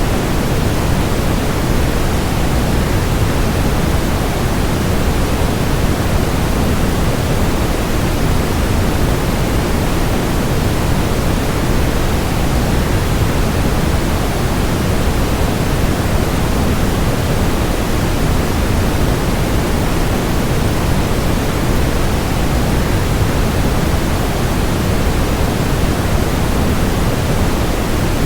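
Waterfall noise: a steady, unbroken rush of falling water, heavier in the low end, with no change in level.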